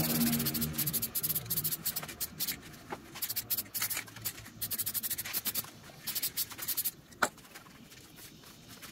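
Sandpaper rubbed by hand along the edges of a small wooden box in quick back-and-forth strokes that stop about seven seconds in, followed by a single sharp click.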